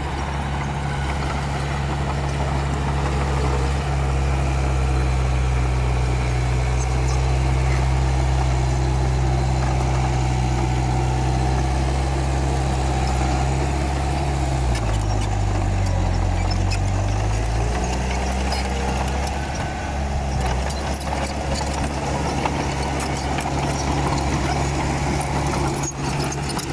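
Komatsu D31P bulldozer's diesel engine running steadily. About halfway through its pitch drops for a couple of seconds, then comes back up.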